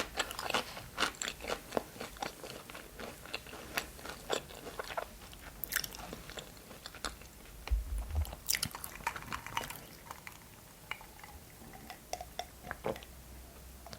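Close-miked crunching and chewing of crisp food. The crackling crunches come thick and fast in the first half, then thin out to sparser, softer mouth clicks towards the end.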